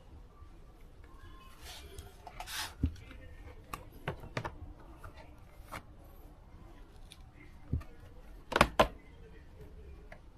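Scattered clicks and knocks of hand work with tools and plastic parts, with a short rustle early on and a sharp double click about eight and a half seconds in.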